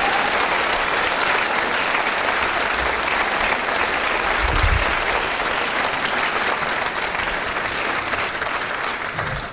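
Concert audience applauding, a dense steady clapping that begins to die away near the end, with a dull low thump about halfway through.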